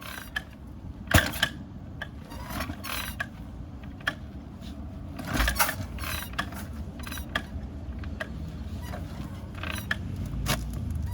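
Kick-starter of an S&S-engined Shovelhead motorcycle being worked from cold, with repeated sharp mechanical clanks and ratchet clicks from the kick lever and starter gears as the engine is turned over without catching. The loudest clanks come about a second in and around five and a half seconds.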